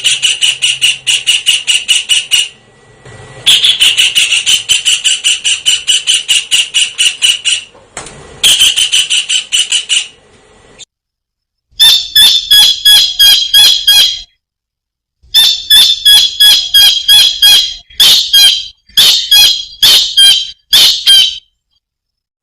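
Kingfisher (tengkek udang) calling in fast runs of shrill, high notes, about ten a second, in three bursts. From about twelve seconds in it changes to a slower series of sharp, separate notes, a few a second, broken by short gaps.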